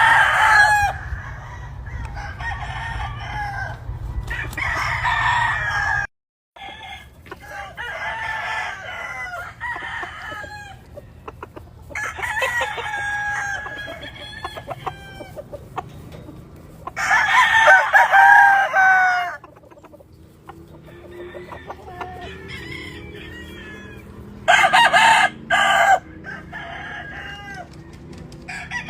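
Gamefowl roosters crowing again and again, long drawn-out crows one after another, with hens clucking in between.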